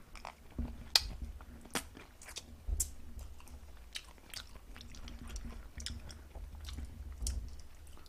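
Close-up chewing of soy-garlic-glazed roast chicken, wet mouth noises broken by a few sharp clicks, the strongest about one, two and three seconds in.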